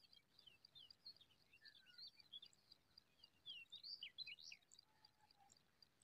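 Faint chirping of small birds: quick high short notes throughout, with a busier run of falling chirps about halfway through.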